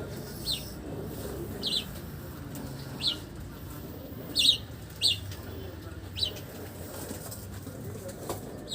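A bird giving short, sharp, high chirps, about seven single notes at uneven intervals, over a steady low background rumble.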